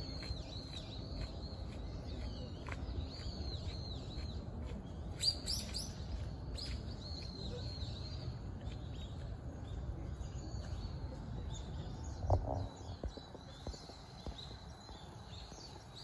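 Birds chirping: many short, high calls in quick succession, thinning out after about halfway, over a steady low rumble. A brief louder bump about three-quarters of the way through.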